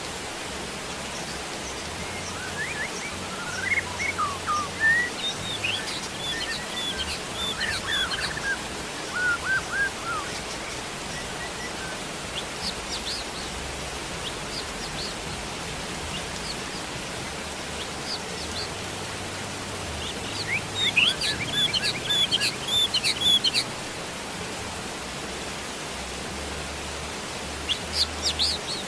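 Steady hiss of falling rain with songbirds chirping over it in several short flurries of quick, high, up-and-down notes, the busiest about a third of the way in and again about three quarters through.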